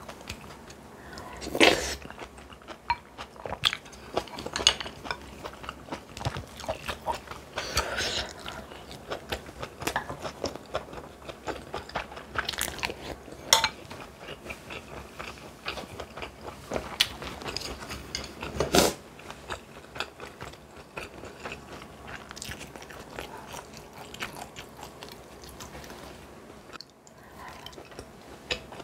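A person eating close to the microphone: steady chewing and crunching bites of food, with a few louder sharp clicks, the loudest about 2 s in and near 19 s.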